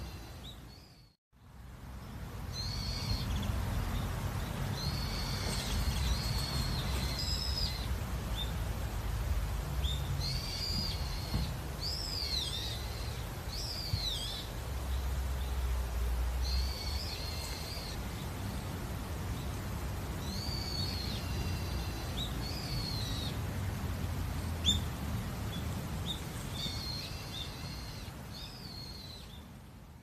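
Small songbirds singing short repeated warbling phrases with quick up-and-down sweeps, over a low steady rumble. The sound drops out briefly to silence about a second in.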